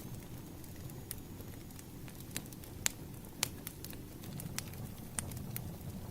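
Wood fire crackling, with irregular sharp pops of burning logs over a steady low rush of flame. Two louder pops come about halfway through.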